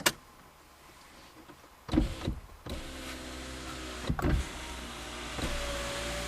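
Car sounds from inside the vehicle: a sharp click, then about two seconds in a motor starts and runs steadily, with a couple of thumps, and a steady whine joins near the end.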